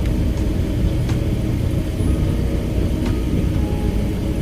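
Steady low rumble of a car driving along a road, engine and tyre noise together, with a couple of faint ticks.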